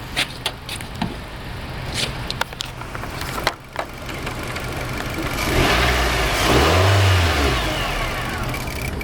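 Nissan Versa 1.6-litre four-cylinder engine idling, with a few sharp clicks in the first few seconds. About five and a half seconds in it is revved once: the pitch rises and then falls back to idle.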